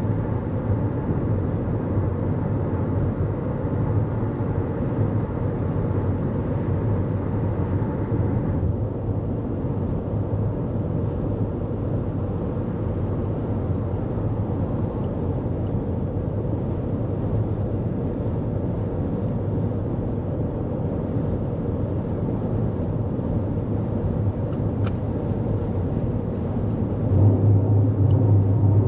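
Steady road and tyre noise of a 2024 Toyota Corolla Cross cruising at highway speed, a wash of noise with a low hum underneath. About 8 s in the higher hiss eases a little, and near the end the low rumble grows louder.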